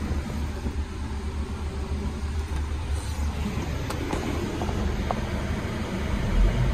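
Mercedes-Benz C250 engine idling, a steady low rumble heard from inside the cabin, with a few light clicks about four and five seconds in.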